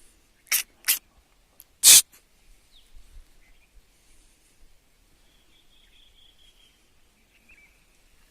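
Three short, sharp noises within the first two seconds, the third the loudest, followed by faint bird chirps and a thin, high call lasting over a second.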